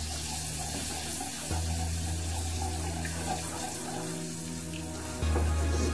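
Milk pouring in a steady stream from a jug into a saucepan of hot roux, stirred with a wooden spoon.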